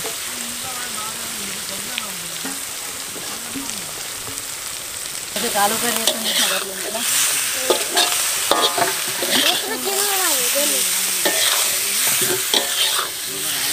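Potato curry sizzling in a black iron kadai over a wood fire, with a metal spatula stirring and scraping against the pan. The frying gets louder about five seconds in.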